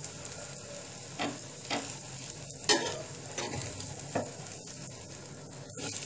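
Bread omelette frying in oil in a pan after being turned over, a steady sizzle, with about five short strokes of a utensil against the pan, the loudest about two and a half seconds in.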